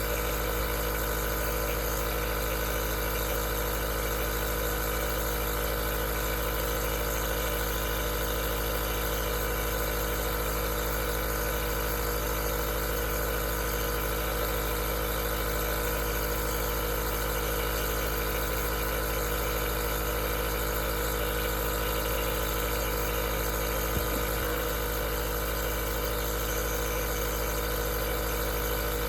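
Aerosol nebulizer's compressor running steadily: an even motor hum with several fixed tones over a constant hiss of air.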